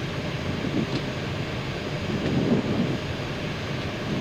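Steady cockpit noise of an Airbus A319 on final approach, a constant rush of airflow over the airframe with the engines running, with the landing gear down and flaps at full.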